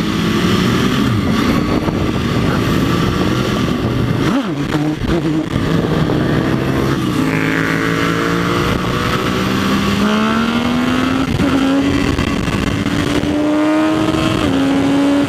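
Motorcycle engine accelerating through the gears. The pitch climbs steadily and drops back at two upshifts, about 11 and 14.5 seconds in.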